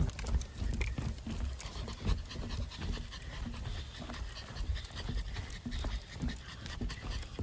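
A dog panting hard in quick, even breaths, worked up from running about.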